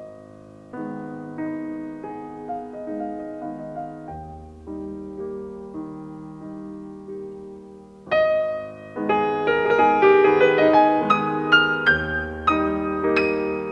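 Background piano music: soft, gentle notes for the first eight seconds, then louder and brighter with quicker, higher notes.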